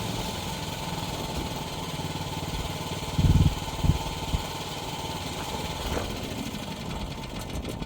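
Gasoline engine of a one-ton mini excavator running steadily, with two heavy low thumps about three and four seconds in. Near the end the engine sound fades as it winds down.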